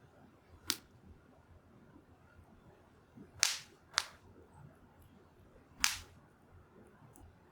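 Burning firewood crackling, with four sharp pops spread over several seconds and faint small ticks between them.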